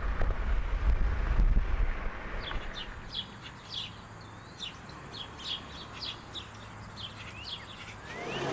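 A low rumble for the first two seconds, then small birds chirping: a quick run of short, high chirps repeating for several seconds.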